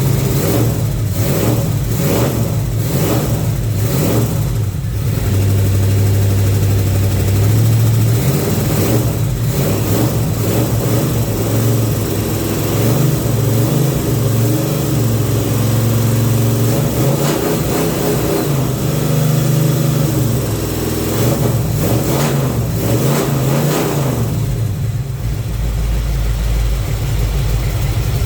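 1970 Chevelle's carbureted engine running after a cold start, its speed rising and falling a few times, then dropping to a lower, deeper idle near the end.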